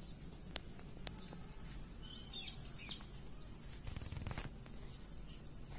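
Quiet outdoor ambience with a few short bird chirps about two to three seconds in. Two sharp clicks come in the first second, and a brief rustle follows about four seconds in.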